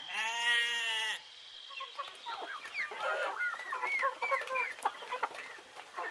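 A long bleat lasting about a second, then, from about two seconds in, domestic hens clucking in many short, quick calls.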